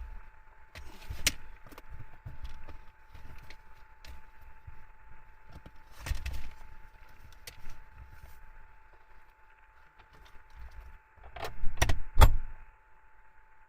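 Scattered clicks and knocks, with a cluster of louder knocks near the end, over a faint steady tone.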